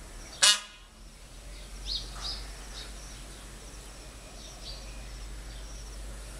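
A single short, loud call about half a second in, then scattered small-bird chirps over steady outdoor background noise.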